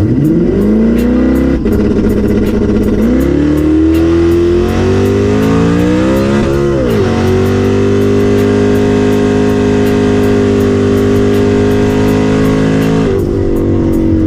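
Twin-turbo Ford Coyote 5.0 V8 Mustang making a full-throttle drag strip pass. The revs climb hard off the launch, drop at a gear change about a second and a half in and climb again. After another shift about seven seconds in the engine holds high and steady, then the throttle lifts near the end and the pitch falls.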